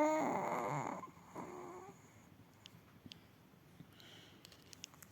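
A four-month-old baby's coo trails off into a breathy, raspy exhale, followed by a second softer one, then a few faint small clicks.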